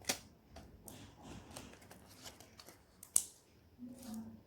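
Colouring materials being handled, a red colour being taken out: light rustling and small ticks, with a sharp click at the start and a louder one about three seconds in.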